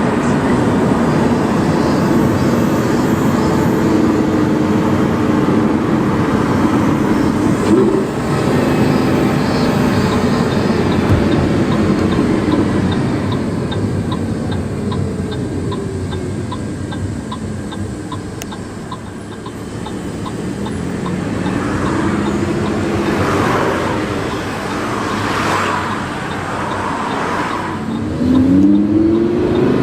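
Lamborghini Huracán's V10 engine with a PowerCraft exhaust, heard from inside the car while driving. It runs steadily, eases off and grows quieter around the middle, then builds again, with revs rising in pitch near the end. A faint regular ticking runs through the middle stretch.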